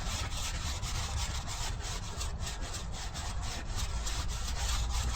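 Stiff wire brush scrubbing a weathered barnwood board to strip off dirt and grime, in quick back-and-forth scraping strokes at about four a second.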